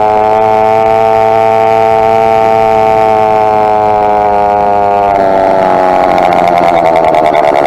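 Two-stroke motorized bike engine running at a steady speed on the move, its pitch rising slightly and then easing. About five seconds in the steady tone breaks up into a rougher, uneven sound.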